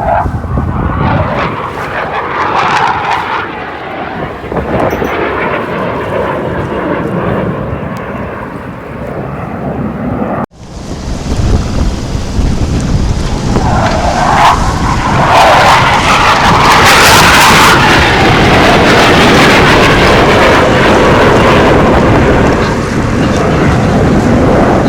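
Blue Angels jet aircraft flying past, a loud rushing jet noise. After a sudden break about ten seconds in, it builds again and stays at its loudest for the rest.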